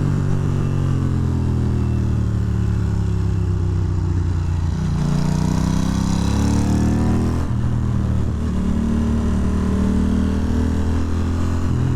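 Ducati Monster 620's air-cooled L-twin engine, heard from the rider's seat. It slows for about four seconds, then revs up until a sudden drop in pitch about seven and a half seconds in, an upshift, and pulls on steadily after it. Wind rushes past the helmet microphone as the bike speeds up.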